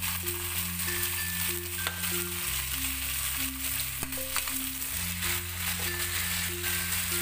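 Chicken pieces sizzling and frying in an oiled nonstick pan as they are basted with sauce and turned, with a few sharp clicks, over background music with a repeating bass line.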